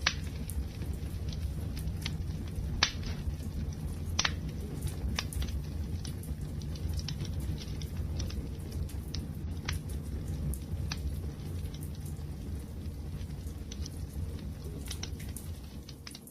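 Wood fire crackling: a steady low rumble of burning with irregular sharp pops and snaps, the loudest ones about three and four seconds in.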